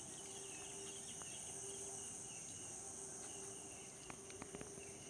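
Insects, likely crickets, trilling in a steady high-pitched chorus, with faint chirps and a few sharp clicks about four seconds in.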